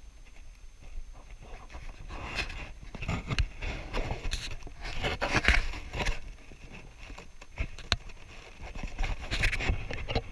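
Canoe paddling on a lake: irregular swishes and splashes of a paddle in the water, over a low rumble of wind on the microphone.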